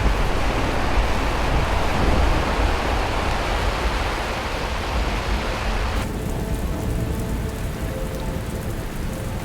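Heavy rain falling, a dense steady hiss over a deep low rumble. About six seconds in, the high part of the hiss drops away abruptly and the rain sounds duller.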